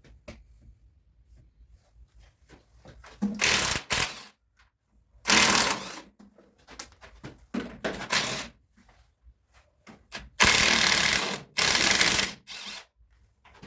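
A power tool run in a series of short bursts, about seven in all, each lasting from under a second to just over a second, with quiet pauses between them.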